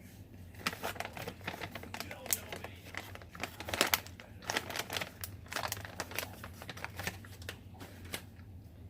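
A plastic snack pouch crinkling and crackling as it is handled, in irregular bursts of crackles for most of several seconds.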